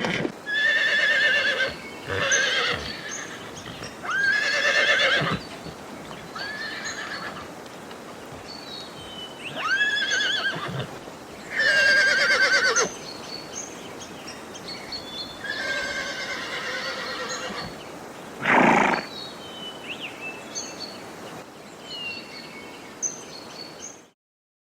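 Horses whinnying, about seven quavering, falling calls a few seconds apart, with a short, louder, lower blast late on. Faint short high chirps sound between the calls, and the sound cuts off suddenly near the end.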